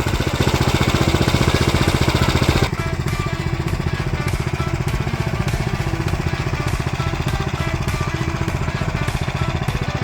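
170cc single-cylinder snowblower engine on a Wheel Horse garden tractor running on its stock muffler, with a rapid, even exhaust beat. It is louder for the first couple of seconds, then drops a little and runs steady.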